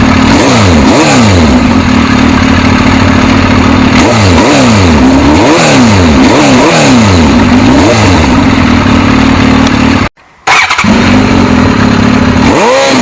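Suzuki GSX-S1000's inline-four engine revved in repeated quick throttle blips, the pitch rising and falling each time, over a steady idle. A cluster of blips comes in the middle. The sound cuts out abruptly for about half a second near the end before one last blip.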